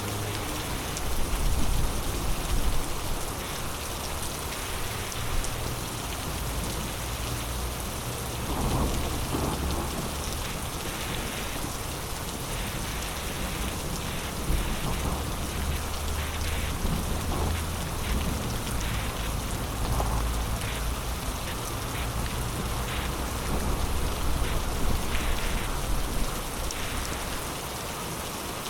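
Heavy rain pouring down in a steady hiss, with low rolls of thunder rumbling underneath several times.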